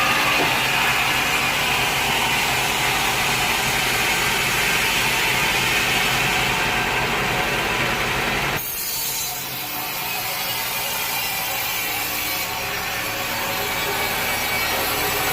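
Saw cutting through wood, a steady rasping noise. The sound changes abruptly a little past halfway through and then carries on.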